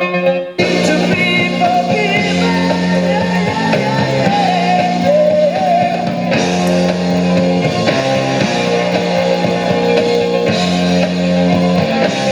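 A rock song with singing and guitar, played back loudly through a Conceptronic Wireless Action Speaker, an 18 W Bluetooth speaker. A short break about half a second in, then the music carries on.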